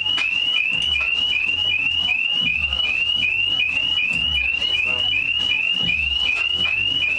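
Rubber duck squeaking over and over, a short, high, rising squeak about three times a second in a very even rhythm.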